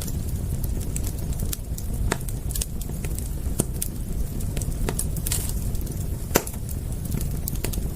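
Wood fire crackling: irregular sharp pops and snaps, one louder than the rest about six seconds in, over a steady low rumble.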